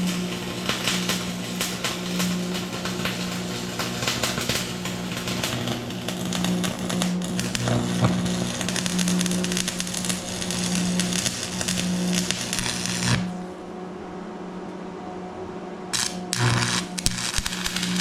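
Electric arc welding: the arc crackles and sizzles steadily for about thirteen seconds, stops, then strikes again in two short bursts near the end. A steady low hum runs underneath.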